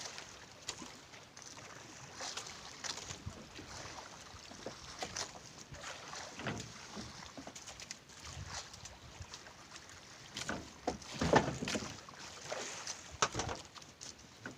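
Water sloshing and irregular knocks aboard a small fishing boat at sea, with a few louder thumps near the end.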